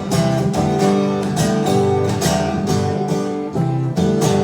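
Acoustic guitar strummed in a steady rhythm, playing the song's chords in a short instrumental gap between sung lines.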